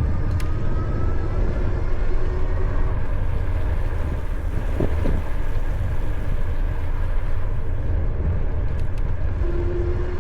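Wind buffeting the camera's onboard microphones, with the tyre and road rumble of a Mokwheel Granite electric trike riding along. The rumble is loud and steady, and faint thin tones come and go over it.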